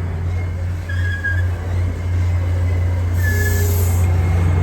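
Steady low rumble of a heavy vehicle, with a short burst of hissing air about three seconds in.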